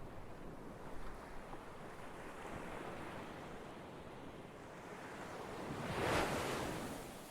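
Ocean surf washing steadily, with one wave swelling up and breaking about six seconds in before it dies away.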